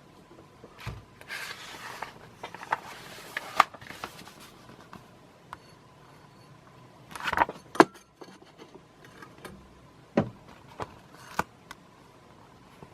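A paper catalog being handled and its pages turned: a few short rustles and swishes with several sharp taps and clicks in between.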